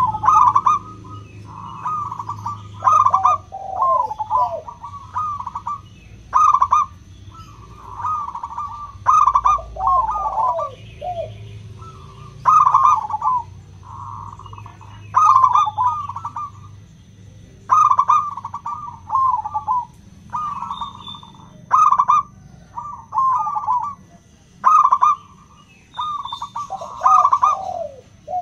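Zebra doves (perkutut) singing: bursts of rapid, rippling coos repeat every second or two, with lower falling notes at times.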